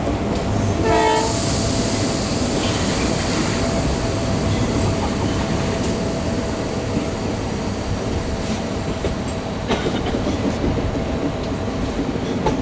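Passenger train running along the track: a steady rumble and rattle of the wheels and carriage. There is a brief pitched tone about a second in, and a sharp click near the ten-second mark.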